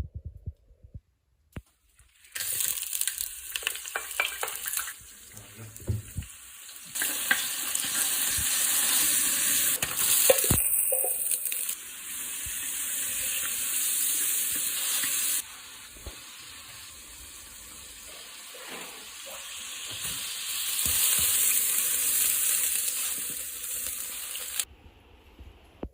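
Fish sizzling as it fries in hot oil in a pan, with a few clicks and knocks of a utensil. The sizzle starts about two seconds in and jumps louder and quieter a few times.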